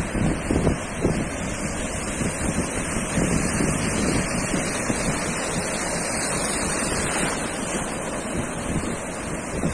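Sea surf washing onto a sandy beach, a steady wash of noise, with wind buffeting the microphone in low, irregular gusts.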